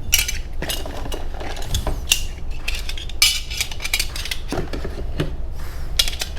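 Metal parts being handled: a run of sharp clicks, clinks and short rattles with a bright, ringing edge, over a steady low hum.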